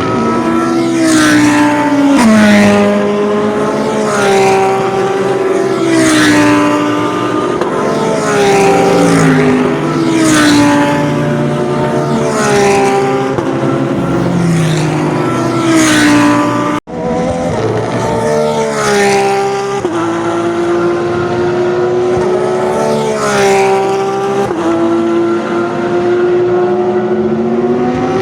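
GT3 race car engines running at speed on track, the engine note repeatedly sliding and jumping in pitch every couple of seconds. The sound breaks off abruptly about seventeen seconds in and resumes at once.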